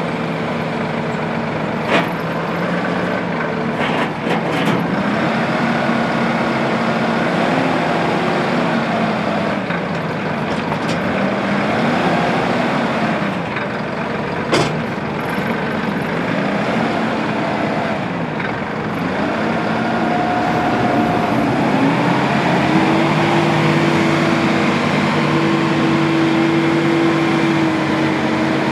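The three-cylinder turbo diesel of a 2016 Massey Ferguson 4609M tractor running, its speed rising and falling several times. It then holds at a higher, steady speed for the last several seconds. A few sharp clicks are heard along the way.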